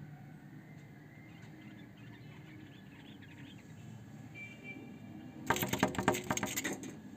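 Small birds chirping faintly, then a sudden loud flurry of rapid calls and wing flapping about five and a half seconds in, lasting just over a second.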